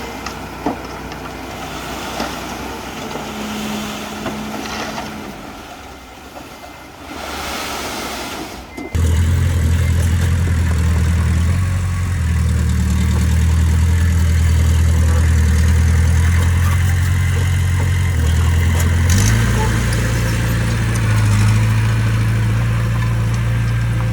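Heavy construction machine's diesel engine running, quieter and mixed with scraping noise at first. About nine seconds in it jumps to a loud, steady low drone, which shifts pitch abruptly a couple of times.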